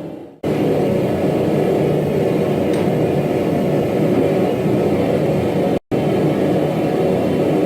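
A steady low mechanical roar, cut off abruptly twice: briefly at the very start and again for a split second about six seconds in.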